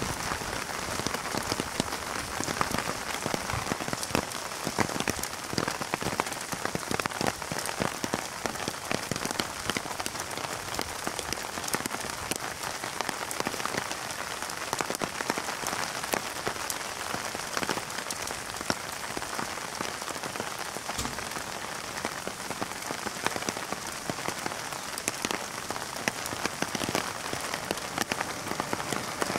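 Heavy rain falling on an umbrella held close over the phone's microphone: a steady hiss full of sharp individual drop hits.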